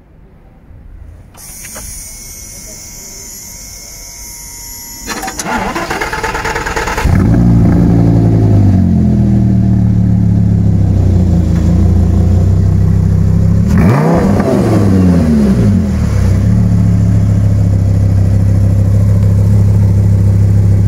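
Audi R8 V10 engine being started from the exhaust end: it cranks for about two seconds, catches about seven seconds in with a flare of revs that settles to idle, is blipped once about fourteen seconds in, then idles steadily.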